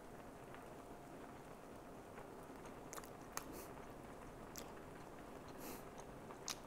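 Faint chewing of a mouthful of raw ground beef, with a few soft clicks.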